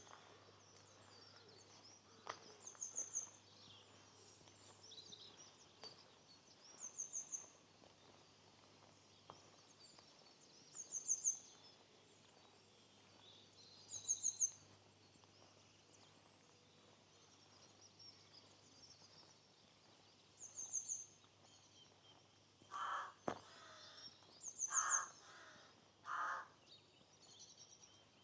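A small songbird repeating a short, high trill every few seconds, with a crow cawing three times near the end over faint outdoor background.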